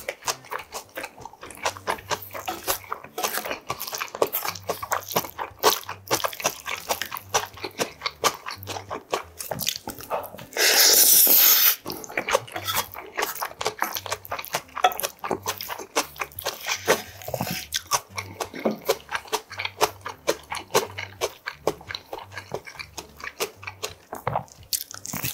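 Close-miked eating sounds of a man eating spicy budae bokkeum (army-stew stir-fry) with rice: continuous wet chewing, crunching and lip smacks, with a loud breathy burst lasting about a second roughly ten seconds in.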